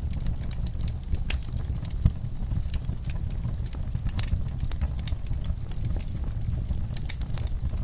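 Wood fire burning in a fireplace: a steady low rumble of flames with irregular crackles and pops of burning wood, one sharp pop about two seconds in.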